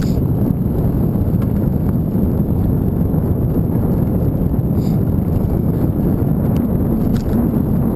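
Wind buffeting the microphone while riding a bicycle: a steady low rumble. A few faint clicks come through it, once near the start, once midway and once near the end.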